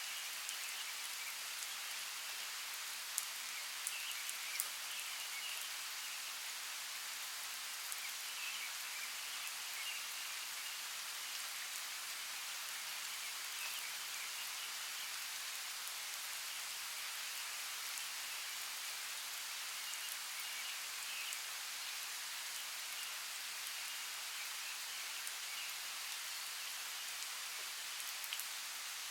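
Steady rainforest rain, with a few sharper drop taps about three to five seconds in. Faint high chirps come and go behind it.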